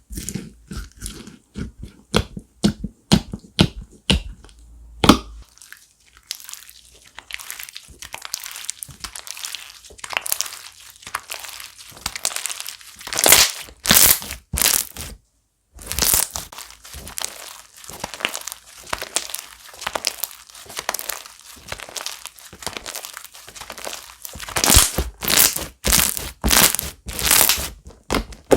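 Slime being squished, pressed and stretched by hand, giving sharp clicks, pops and crackly crunching. The first few seconds are sparse separate pops. After that the crackling is dense, and it breaks off briefly about halfway through.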